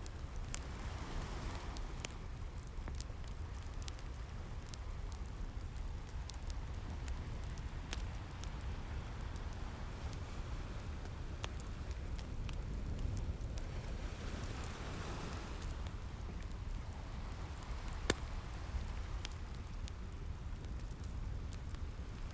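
Fireplace crackling with scattered sharp pops, one louder about eighteen seconds in, over ocean waves washing in slow swells and a steady low rumble.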